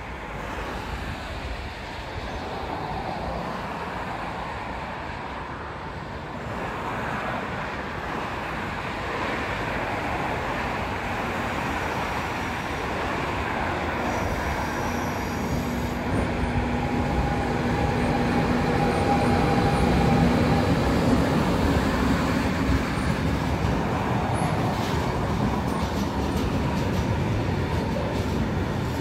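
Double-headed intermodal freight train with two electric locomotives approaching and passing, growing louder as it nears. Steady tones sound while the locomotives go by, followed by the continuous rolling rumble of the wagons.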